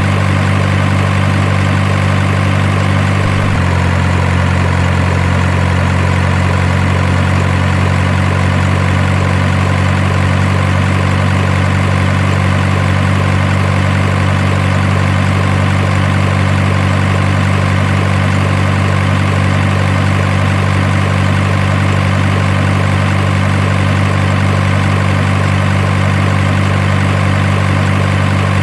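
A steady, idling truck-engine sound, a deep even hum whose pitch steps slightly about three and a half seconds in.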